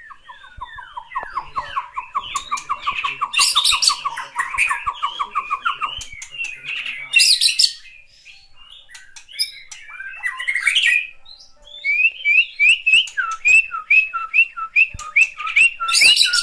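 A bird calling loudly. It gives a rapid run of short repeated notes, then after a pause a steady repeating pattern of a rising chirp followed by a lower note, with harsh squawks in between.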